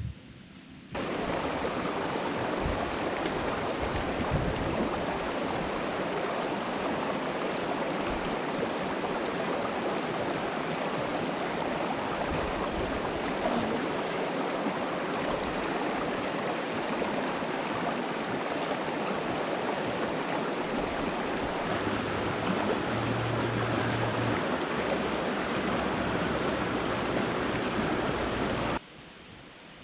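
Steady rush of flowing water, like a river or stream, starting abruptly about a second in and cutting off abruptly near the end.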